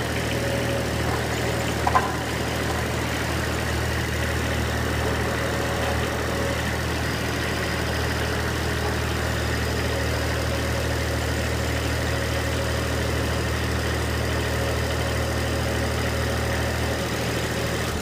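An engine idling steadily at an unchanging speed, with a short sharp click about two seconds in.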